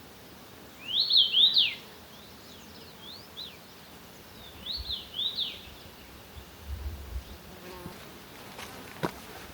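A small songbird singing two short phrases of quick up-and-down chirps, the first about a second in and the second about five seconds in, with softer notes between. A dull thud and a sharp click come near the end.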